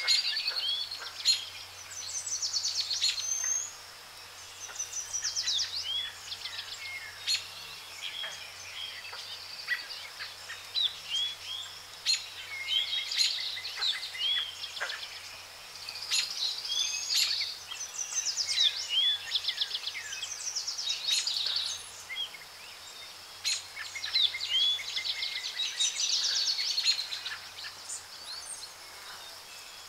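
Birds calling: short chirps that bend up and down and quick rattling trills, coming in clusters every few seconds.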